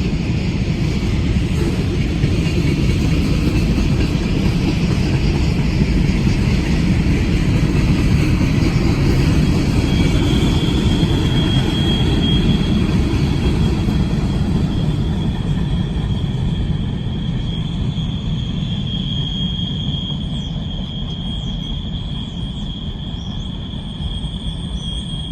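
Freight train cars rolling past with a steady low rumble. A high, steady wheel squeal sets in about ten seconds in and holds while the rumble slowly fades.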